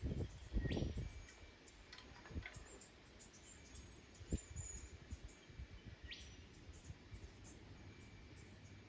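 Small garden birds giving scattered thin, high chirps and short rising calls, with a few low thumps, the loudest near the start.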